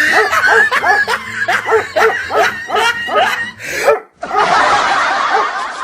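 A person laughing in short, quickly repeated bursts for about four seconds, then a harsh, noisy rush lasting a second and a half.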